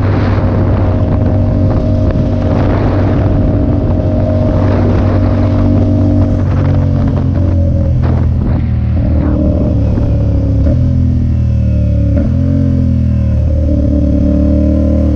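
Motorcycle engine running at road speed with rushing wind noise. The engine note holds steady at first, then rises and drops several times in the second half as the throttle and gears change.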